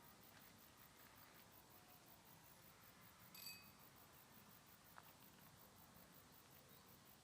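Near silence: faint background hiss, broken by one short high-pitched chirp about halfway through and a faint click a moment later.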